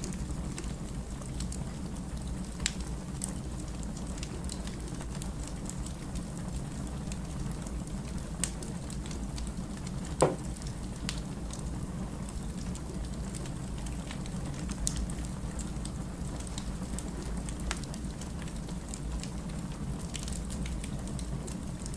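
Wood fire burning in a fireplace: a steady low rumble of the flames with scattered small crackles and one louder pop of the burning logs about ten seconds in.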